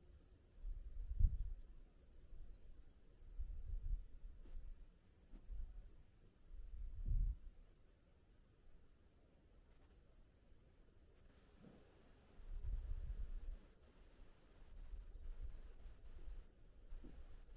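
Wind gusting against the microphone in several low rumbling swells, with a fast, steady high-pitched ticking running underneath.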